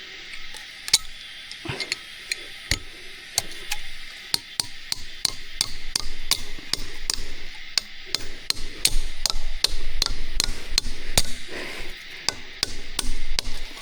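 A quick, irregular series of sharp knocks, like hammering or tapping on something hard, about three or four a second, with a low rumble under them in the second half.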